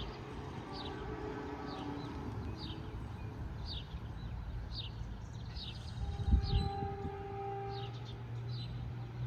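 NJ Transit Arrow III electric multiple-unit train pulling out of the station, its motors giving a steady whine that fades after about two seconds and returns briefly later, with a thump about six seconds in. Through it, a short high descending chirp repeats about every 0.7 s, likely a bird.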